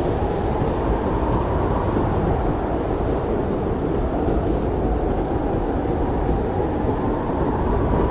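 Blizzard wind blowing hard and steadily, a deep rumble with a faint howling whistle that slowly wavers in pitch.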